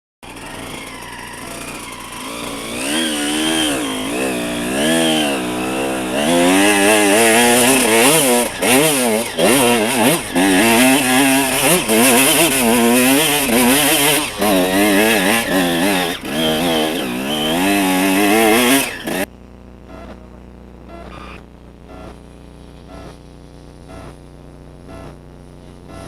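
Enduro motorcycle engine revving hard, its pitch swinging up and down again and again under load. About nineteen seconds in it drops suddenly to a much quieter steady running.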